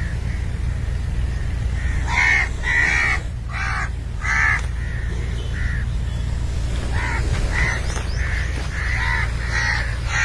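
A bird calling repeatedly in short calls, about a dozen of them starting around two seconds in, over a steady low rumble.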